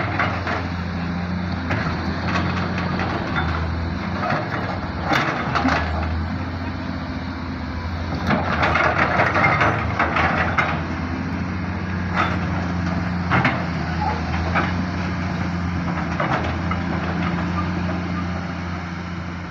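Excavator's diesel engine running steadily, with intermittent metallic knocks and clanks over it, and a louder, rougher stretch about halfway through.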